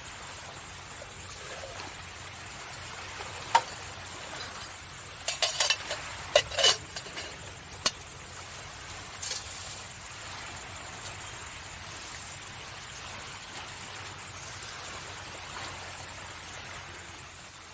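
Wood fire crackling in a fire pit: a steady hiss broken by a handful of sharp pops, clustered a few seconds in.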